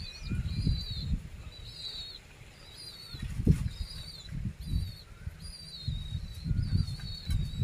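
A small caged bird chirps over and over, one high, wavering chirp about every second, beside a flock of pigeons. Low, irregular thumps and rustles run underneath.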